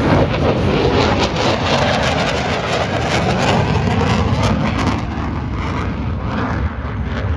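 EA-18G Growler's twin General Electric F414 jet engines during a low pass: a loud, crackling jet noise whose crackle and hiss drop away about five seconds in as the jet moves off.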